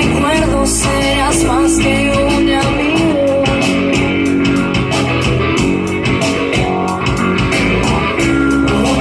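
A rock band playing: guitars and drums keeping a steady beat, with a melody line that bends up and down over it, likely a singer.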